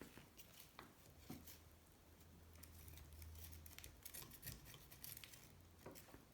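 Faint scraping and small clicks of a metal tool digging oily, sandy sludge out of an aluminium motorcycle engine case, with a low hum in the middle.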